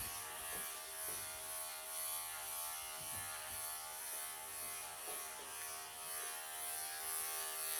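Wahl professional electric pet clippers running with a steady hum while clipping a Persian cat's matted coat.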